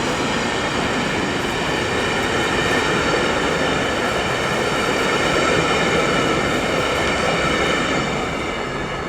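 A train passing close by: a loud, steady rolling noise with several steady high tones over it, fading near the end.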